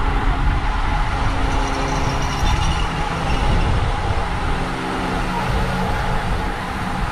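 Wind rumbling heavily on the microphone of a camera carried by a cyclist at race speed, over a steady hiss of tyres on the road.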